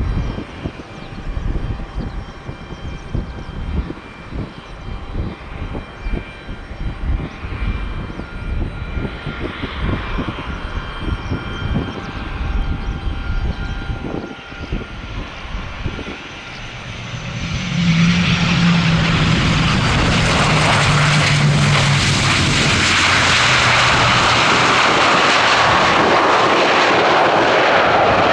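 Gusts of strong wind buffet the microphone under a faint airliner engine whine. About eighteen seconds in, aircraft engines become much louder and stay at a steady, loud roar with a deep droning tone.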